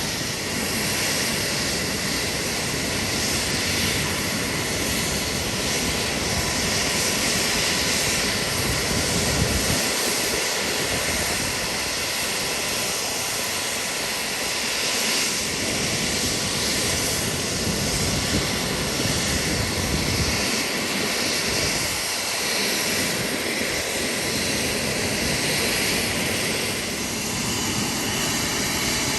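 Black Hawk helicopters running close by: a loud, steady mix of turbine and rotor noise that holds for the whole stretch, thinning slightly in the low end twice.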